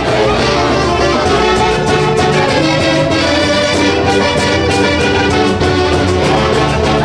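Peruvian folk orchestra playing a Santiago tune, with horns over a steady bass line.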